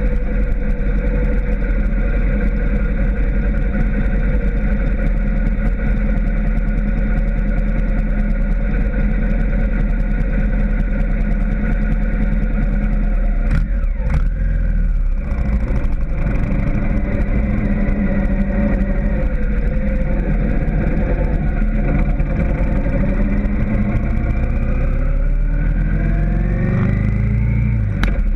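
Cruiser motorcycle engine running steadily, with a brief break in the sound a little before halfway. Near the end the pitch rises as the engine speeds up.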